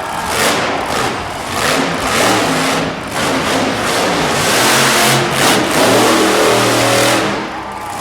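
Monster truck engine revving hard in repeated surges, its pitch climbing and dropping, loud throughout.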